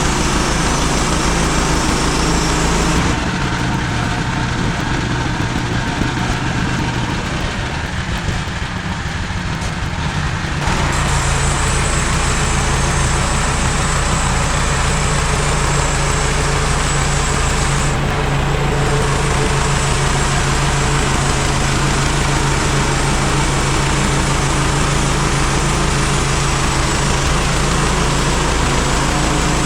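MechMaxx SM32 band sawmill running steadily with its engine at speed. From about three seconds in to about ten seconds in the sound drops a little and loses its hiss, then it returns to full.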